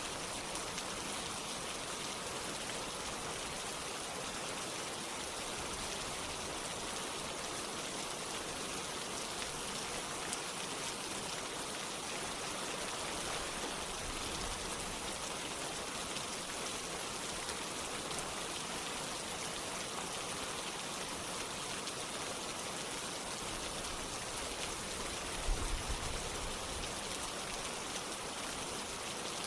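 Steady rain falling, mixed with the continuous rush of running water. About 25 seconds in there is one brief low thud.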